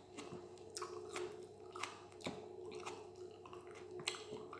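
A person chewing food with the mouth close to the microphone: faint, irregular wet clicks and smacks, about one every third of a second to a second.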